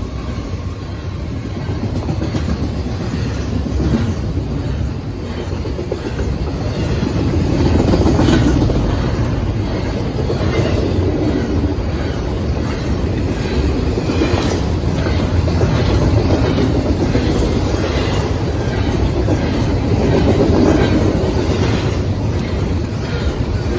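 A freight train of double-stack container cars rolling past at speed: a steady, loud rumble of steel wheels on rail, with irregular clicks as the wheels cross rail joints.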